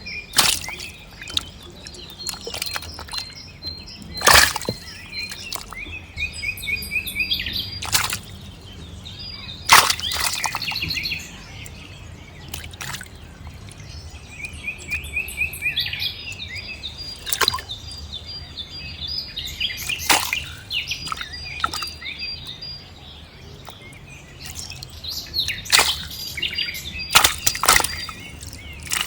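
Birds chirping and trilling, with a low steady hum underneath and several short, sharp loud sounds spread through the stretch.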